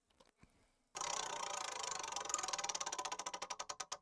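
A prize wheel spinning, ticking very fast and then slowing down as the wheel loses speed. The ticking starts suddenly about a second in.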